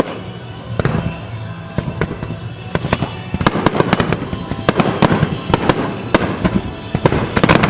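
Fireworks shells bursting in a display: a few single bangs at first, then from about three seconds in a dense run of rapid bangs and crackles. Music plays underneath.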